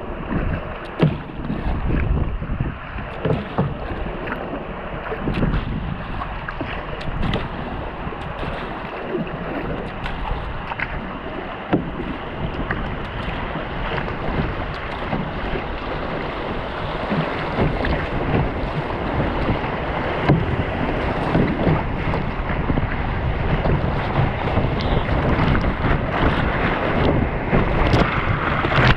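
Water rushing and splashing around a kayak on a river, with wind buffeting the microphone and occasional sharp knocks. It grows a little louder in the second half.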